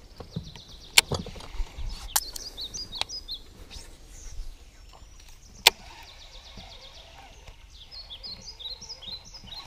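Small birds chirping and twittering, with two loud sharp clicks, about a second in and a little past the middle, and a few softer clicks between.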